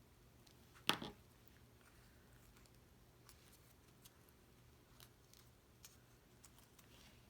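Faint handling of cardstock rose petals as they are rolled up, with one sharper crisp paper sound about a second in and a few soft ticks after it.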